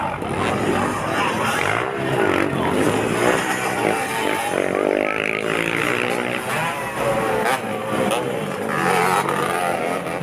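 Dirt bike engines running and revving, one rising and falling in pitch clearly in the middle, with voices mixed in.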